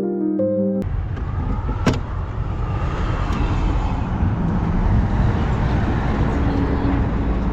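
A music intro cuts off about a second in. Then comes steady vehicle road noise, loudest in the low end, with one sharp click about two seconds in.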